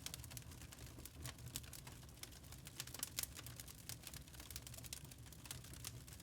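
Wood fire crackling in a fireplace: faint, irregular sharp snaps and pops of burning logs over a low, steady rumble.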